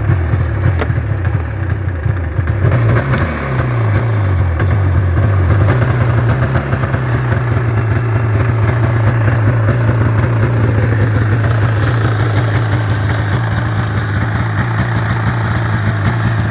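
Yamaha Phazer snowmobile's four-stroke twin engine running just after starting. Its pitch wavers for the first few seconds, then settles into a steady idle.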